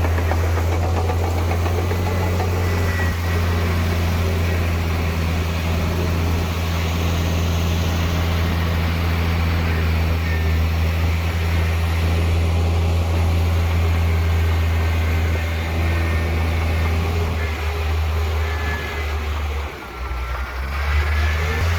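Heavy diesel engine of earth-moving machinery running steadily with a deep, even hum, dropping briefly near the end before picking up again.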